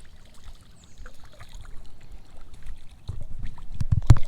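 Water splashing and sloshing as a small hooked trout is brought in on a fly line, with a few louder low thumps and a sharp knock near the end.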